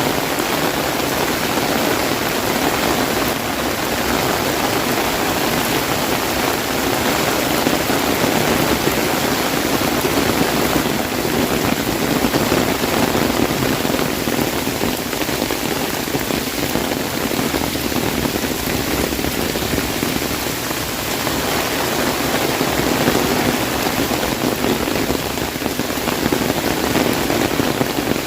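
Heavy rain drumming steadily on an umbrella, a dense, even patter with no breaks.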